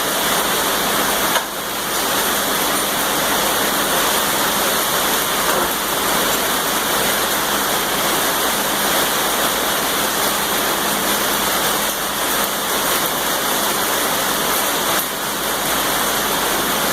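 Heavy rain, a steady hiss that runs on with brief dips about a second and a half in and near the end.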